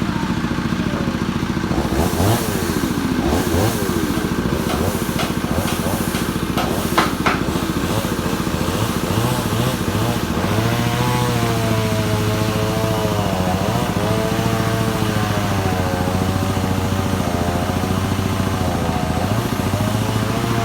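An engine running steadily. Over it, a wavering higher-pitched tone rises and falls through the second half.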